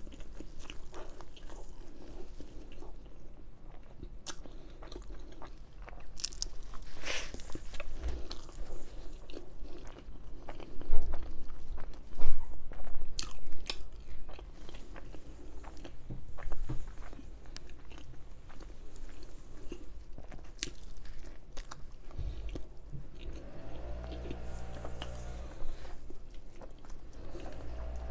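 Close-up eating sounds: biting, crunching and chewing pieces of naan bread dipped in curry sauce, with the loudest crunches about halfway through. Near the end a low motor hum comes up in the background, which she puts down to the gardener working outside.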